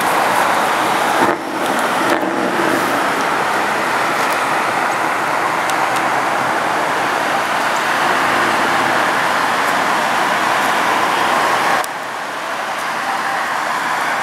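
Car on the move, with steady road and engine noise. The level drops abruptly about a second in and again near the end.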